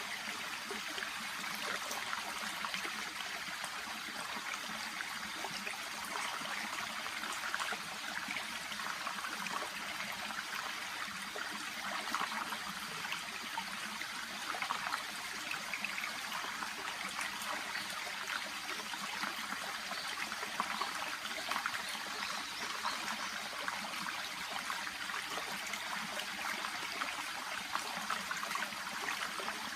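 Shallow brook babbling and trickling steadily over stones.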